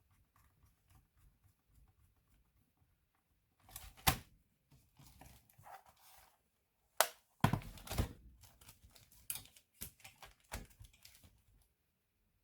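Irregular clicks and knocks of laptop parts being handled and fitted, with a sharp knock about four seconds in and a louder cluster around seven to eight seconds.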